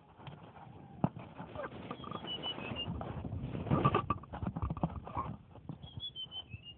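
Caged tledekan songbird giving short series of high chirps that step downward in pitch, about two seconds in and again near the end, over a stretch of knocking and rattling that is loudest around the middle.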